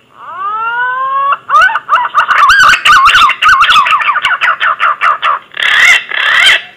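Green pigeon (punai) call played as a hunting lure: one long rising whistle, then a rapid run of wavering, warbling whistled notes, ending with two rougher, harsher notes.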